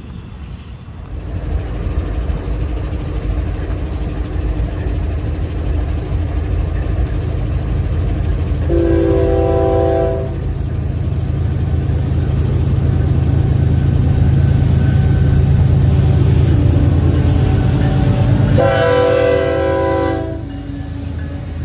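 BNSF freight train's diesel locomotives passing close by, their engines giving a steady low rumble that builds as the locomotives go past. The lead locomotive's multi-note air horn sounds two blasts of about a second and a half each, one about nine seconds in and one near the end.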